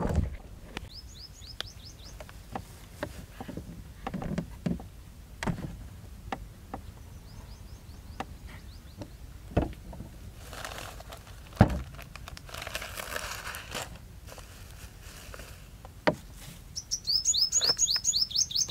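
A small bird chirping outdoors: a few short falling chirps early, then a quick run of them near the end. Scattered clicks and knocks and some rustling come from bottles and a plastic cup being handled on a wooden cot.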